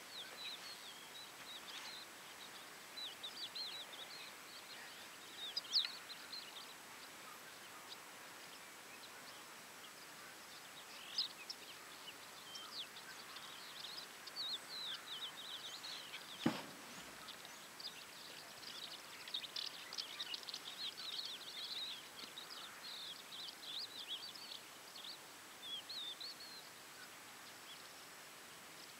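Small birds chirping on and off over a steady outdoor hiss, with one sharp click a little past the middle.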